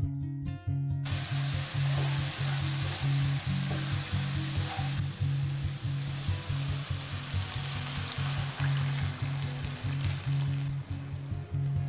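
Cubes of tempe gembus frying in hot oil in a nonstick wok, sizzling steadily as a spatula stirs them. About eleven seconds in, the sizzle softens as water is poured into the wok.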